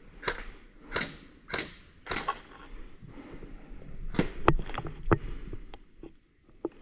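Four crunching footsteps in dry brush, about one every 0.6 seconds, followed by several sharp clicks and knocks.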